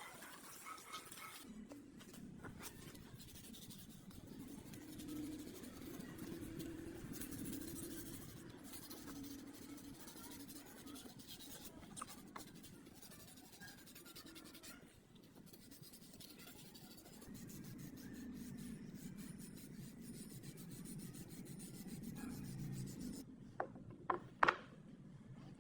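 Scratchy rubbing and scraping on a surface in uneven strokes, with a few sharp clicks near the end.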